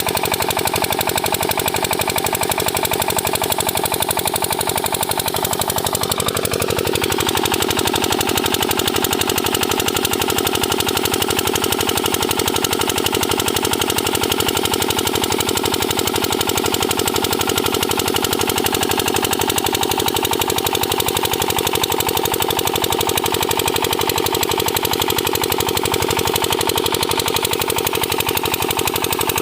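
Single-cylinder 8 HP diesel engine of an irrigation water pump set running steadily with a fast, even knocking beat. About six to seven seconds in, a pitch falls and then holds steady, as the engine settles into its running speed under the pump's load.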